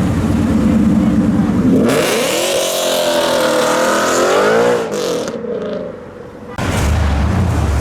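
Car engines: one runs with a steady rumble, then is revved up and back down over a few seconds. Near the end a second, deeper and louder engine comes in suddenly.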